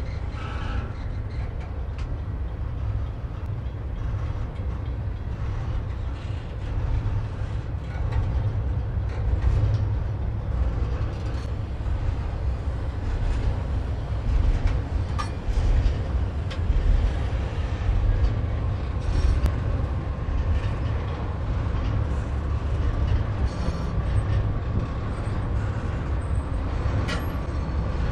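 Canadian Pacific double-stack container train rolling past: a steady low rumble of steel wheels on rail, with scattered clicks and clanks from the well cars and a faint thin whine in the second half.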